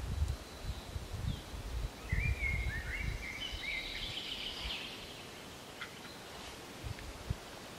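Outdoor ambience with a songbird singing a short run of chirping notes about two seconds in, over low rumbling gusts in the first few seconds that fade to a quiet, even background.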